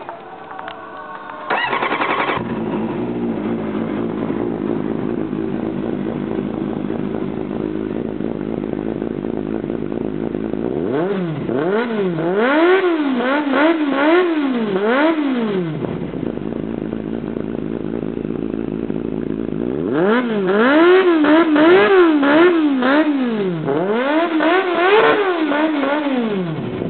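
Triumph TT600's inline four-cylinder engine, breathing through a short 10 cm WR aftermarket exhaust, catching and starting about a second and a half in, then idling. It is revved in two runs of quick throttle blips, one around the middle and one near the end, the pitch climbing and dropping with each blip.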